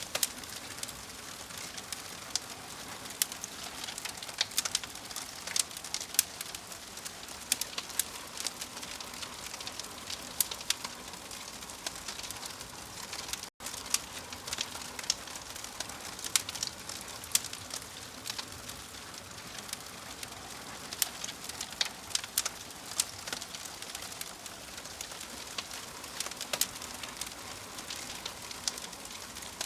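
Wood fire of burning logs in a fireplace: irregular sharp crackles and pops over a steady hiss. A split-second dropout to silence comes a little before halfway through.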